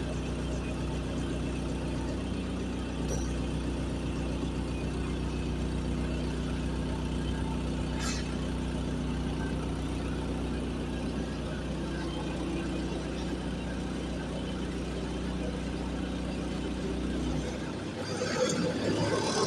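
Diesel generator set (a 50 kVA silent genset with a FAWDE diesel engine) running steadily during a load test, with a single sharp click about eight seconds in. Near the end the engine's low hum drops away.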